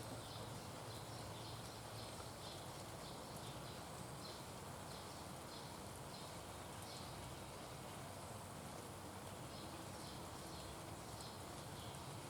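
Repeated short high-pitched chirps from a small animal, about two to three a second, pausing briefly about two-thirds of the way through, over a steady low hum.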